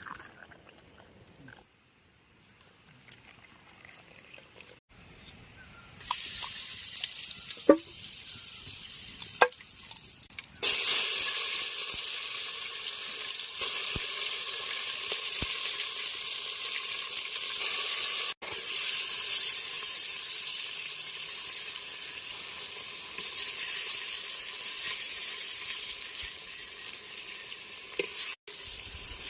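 Food sizzling and frying in a pan over a camp fire or stove, a steady hiss that starts faintly about six seconds in and turns loud about ten seconds in, after a few light clicks and knocks.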